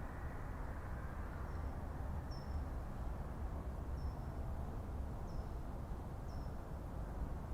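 Forest ambience: a steady low background rumble and hiss, with a small bird giving short high chirps about five times, a second or so apart.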